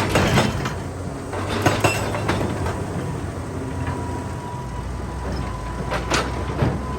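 Excavator engine running steadily under load, with irregular sharp knocks and clanks of the bucket working rock, heaviest near the start and once again near the end.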